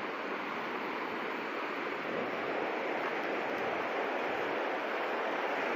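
Steady rushing of flowing river water, growing a little louder about two seconds in.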